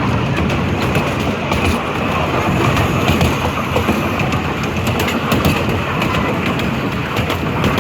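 Small-gauge steam train running steadily, its car wheels rolling and clicking over the rail joints, heard from aboard the train.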